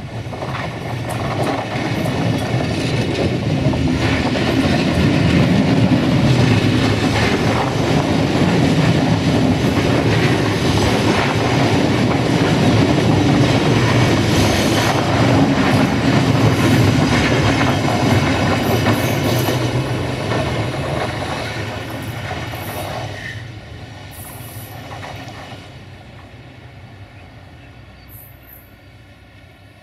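A diesel train passing close by: engine and wheels on the rails, with some clickety-clack. It swells over the first few seconds, stays loud for a long stretch, then fades away steadily.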